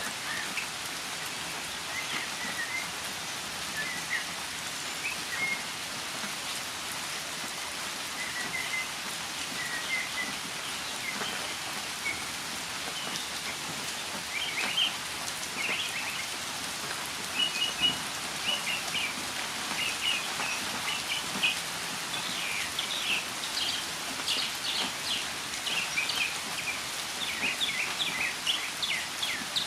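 Northern mockingbird singing over a steady hiss of falling rain: scattered short notes at first, then from about halfway through a busier, louder run of quick, varied notes.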